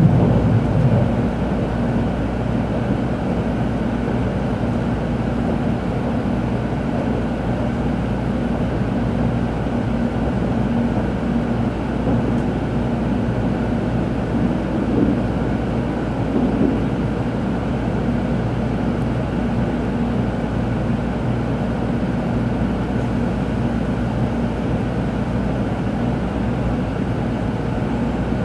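Inside a Tokaido Shinkansen car: steady running noise of the train, a low rumble with a constant hum. A louder low rumble at the very start eases off within about a second.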